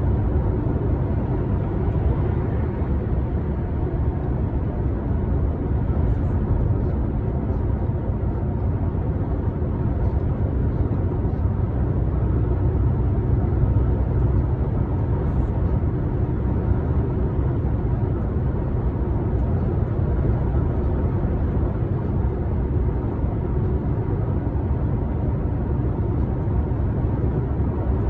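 A truck on the move: a steady, low rumble of engine and road noise that holds even throughout.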